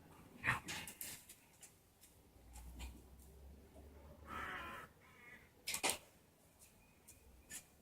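Six-week-old puppies at play: a few short, high yips and squeals among sharp scuffling clicks.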